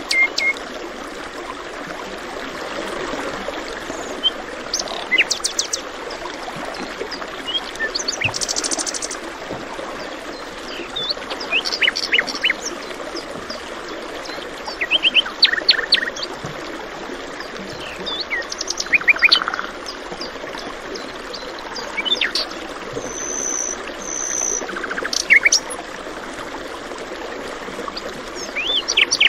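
Several songbirds chirping and calling in short phrases, over a steady background of a flowing stream.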